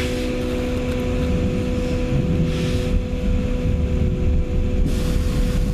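Running noise inside a moving vehicle: a steady low rumble with a constant hum.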